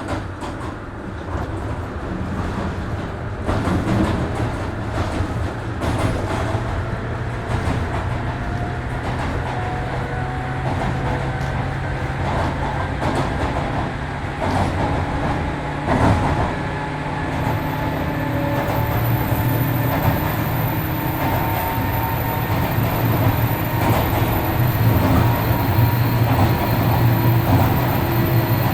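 103 series 1500 subseries electric train running, heard from inside the car: a steady rumble and hum with a faint whine that rises slowly in pitch, and wheels clicking now and then over rail joints.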